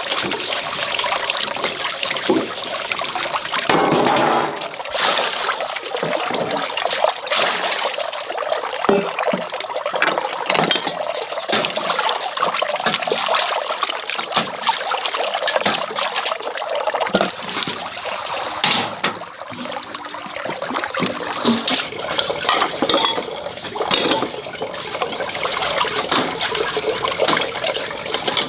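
Water running and splashing steadily, with many small knocks and clinks mixed in, as of washing things by hand under a running tap.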